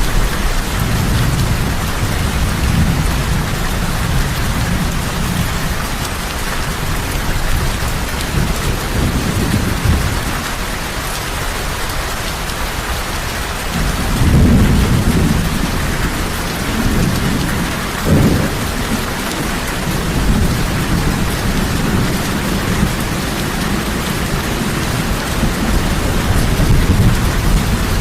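Heavy rain falling steadily, with low thunder rumbling underneath that swells about halfway through and again near the end.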